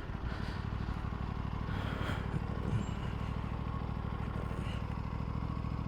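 Aprilia RS 457's parallel-twin engine running steadily at low speed, a low, even hum of rapid firing pulses with no revving.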